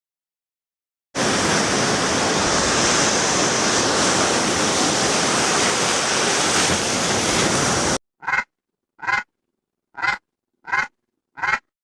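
A steady rushing noise for about seven seconds that cuts off suddenly, followed by five short pitched animal calls, each a fraction of a second, spaced a little under a second apart.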